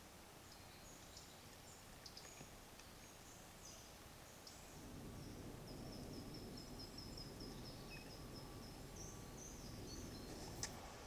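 Faint high songbird chirps and calls, including a quick run of repeated high notes in the middle, over low background rumble. There is a single sharp click near the end.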